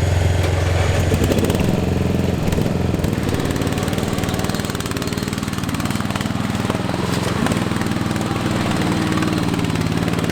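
Modified lawn tractor's engine running hard under load in a mud bog, its pitch dipping and climbing a few times as the revs change.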